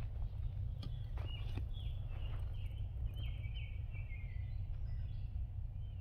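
Wild birds calling over a steady low rumble: a few sharply falling chirps about a second in, then a run of song notes stepping down in pitch.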